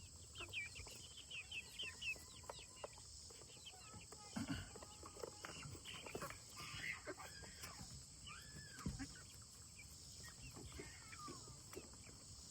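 Chickens clucking quietly, with many short, scattered calls over a steady faint high hiss.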